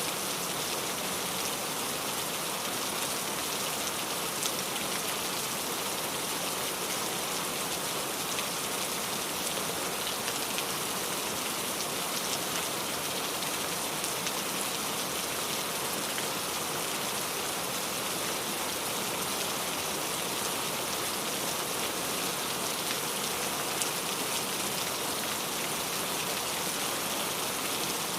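Steady rain falling, a dense even hiss of drops with faint scattered ticks of individual raindrops.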